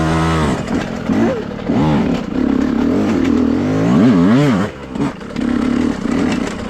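Dirt bike engine revved up and down over and over, its pitch rising and falling in short sweeps, with the strongest rev about four seconds in.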